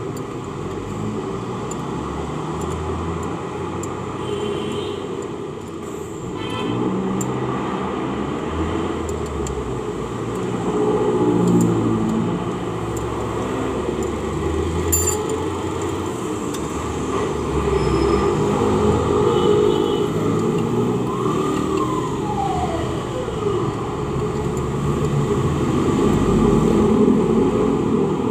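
Steady rumble of road traffic and vehicle engines passing, swelling and fading, with one falling whine about three-quarters of the way through.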